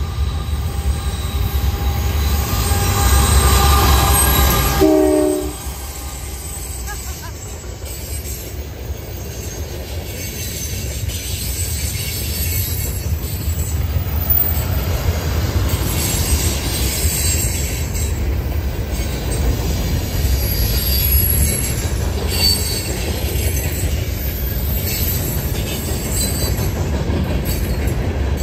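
Diesel freight train sounding its horn as it approaches, the horn ending about five seconds in with a short final note. The freight cars then roll past with a steady rumble of wheels on rail and occasional faint wheel squeal.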